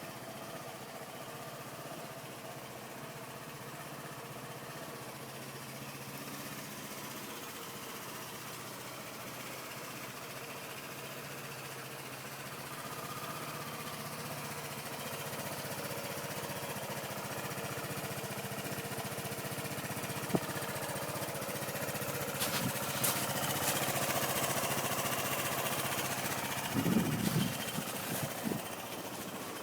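Gilera Runner ST 200 scooter's single-cylinder engine idling steadily through its standard exhaust, growing somewhat louder partway through. Near the end come a few sharp clicks and a brief cluster of low thumps.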